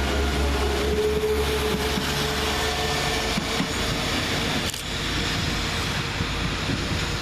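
Two coupled Class 172 Turbostar diesel multiple units pulling out, their underfloor diesel engines running, with a steady whine that fades over the first second or two.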